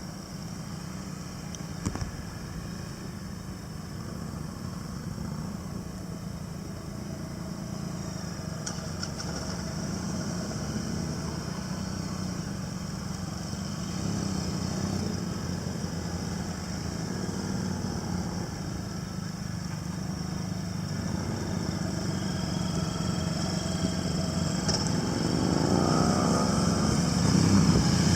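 Motorcycle engine running steadily and growing gradually louder, with a glide in pitch as it revs or passes close near the end.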